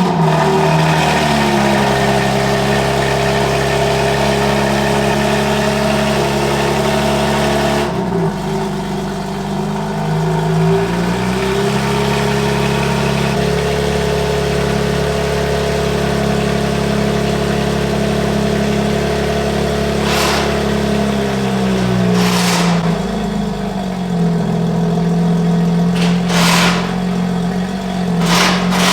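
Car engine running steadily under way, its note stepping up or down in pitch a few times. A few short rushing noises come in the last third.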